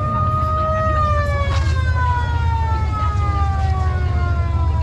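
Siren wailing in one slow sweep, rising to a peak about a second in and then falling slowly, over a steady low rumble.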